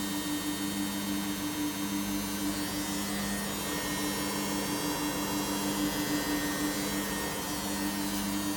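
Samsung washing machine running, with a steady low motor hum that throbs quickly, over a hiss.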